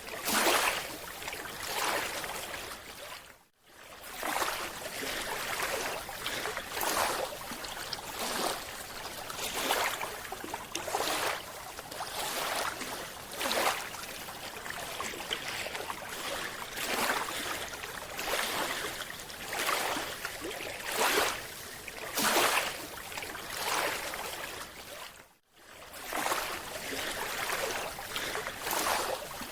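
Rushing water noise that swells and falls in surges about once a second, with two brief drops to near silence.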